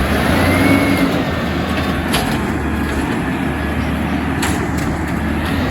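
Refuse truck running with a steady low engine drone and body rattle, with a couple of sharp knocks, about two seconds in and again near the end.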